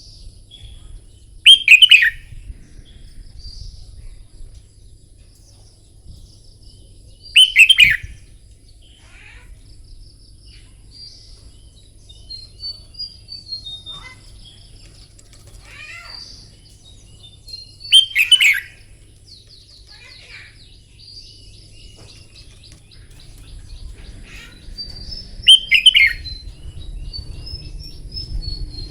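Red-whiskered bulbul singing: four loud, short phrases spaced several seconds apart, with softer chirps and twittering between them.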